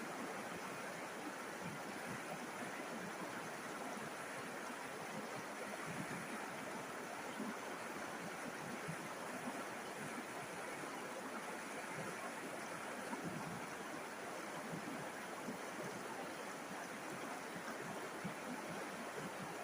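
A river's water flowing and babbling over stones, a steady rushing that does not change.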